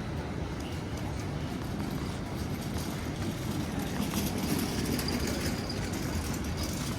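Rainy city street noise: a steady hiss of rain and wet road with passing traffic, swelling a little about four seconds in.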